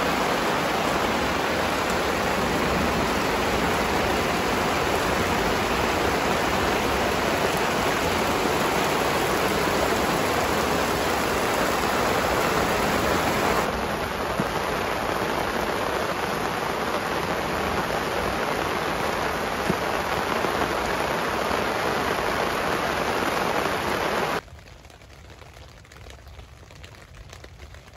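Heavy rain falling steadily, heard from under a camping tarp. About halfway through it steps slightly quieter. Near the end it drops suddenly to a much quieter, duller rain heard from inside the tent.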